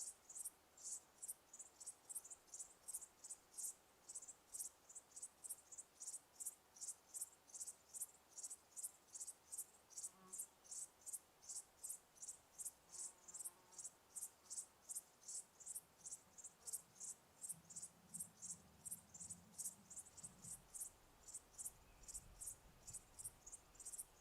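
Cricket chirping in a steady, even rhythm, about two to three short, high chirps a second.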